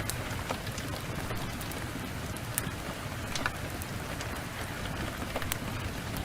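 Heavy rain pouring steadily, with sharp crackles of a wood fire scattered through it.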